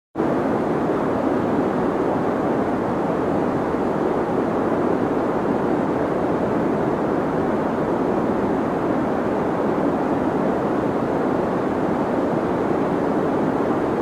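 Steady deep white noise, a dense even hiss weighted toward the low-mid range with little top end. It comes back in abruptly just after a brief dropout at the very start, as at a loop seam.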